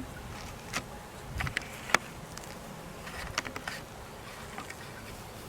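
Honey bees buzzing in flight around a swarm, with a few light clicks scattered through.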